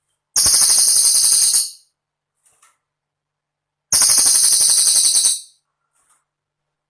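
Cililin songbird singing twice, each phrase a very high, fast trill or chatter of a second and a half, with a pause of about two seconds between the two.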